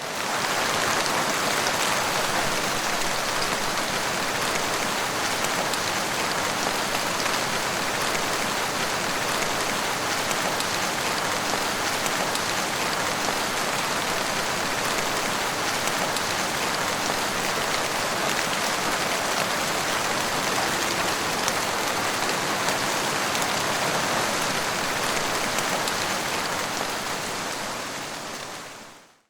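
Steady, even rain falling and pattering on surfaces, with no thunder. It fades in at the start and fades out near the end.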